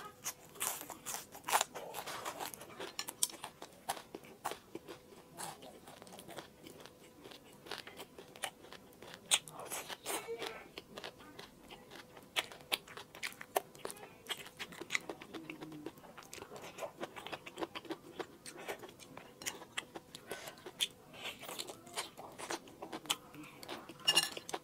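Close-up chewing and biting of crispy food: a continuous run of sharp crunches and crackles, with a louder bite near the end.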